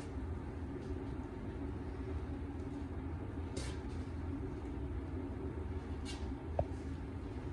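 A steady low rumble, with two brief hisses about halfway through and again near the end.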